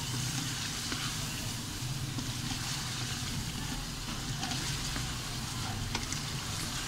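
Chicken pieces and potato chunks sizzling in hot ghee in a metal pot while being stirred and turned with a spatula, with light scrapes of the spatula on the pan. A steady low hum runs underneath.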